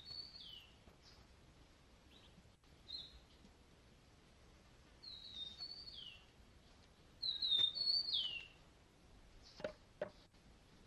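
Birds chirping: small groups of short, high chirps, several dropping in pitch, a few seconds apart, with two soft knocks near the end.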